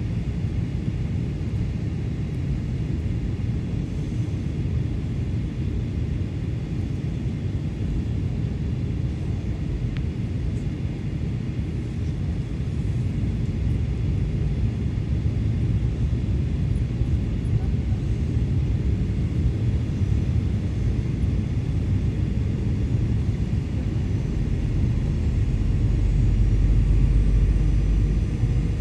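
Airbus A320 cabin noise: the steady low rumble of the engines and airflow heard from inside the passenger cabin, growing louder in the last few seconds.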